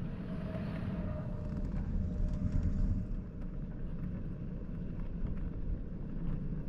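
Steady low rumble of wind and road noise from a small vehicle riding along a road, with a faint thin whine in the first couple of seconds.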